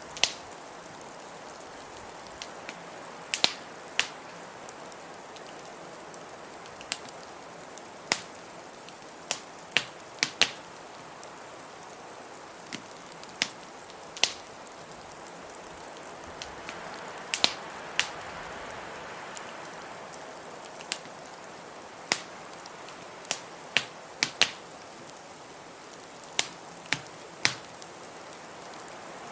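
Wood fire in a fireplace crackling, with irregular sharp pops a second or two apart, over a steady hiss of blizzard wind.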